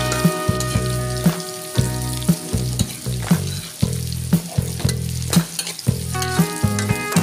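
Chicken frying and sizzling in an aluminium wok while a metal spatula stirs it, with irregular clanks and scrapes of the spatula against the pan about twice a second.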